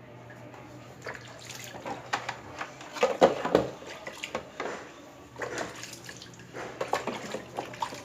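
Plastic motorcycle side fairing being wet-sanded by hand with 400-grit sandpaper and water: irregular rubbing strokes and splashes, loudest about three seconds in, over a faint steady hum.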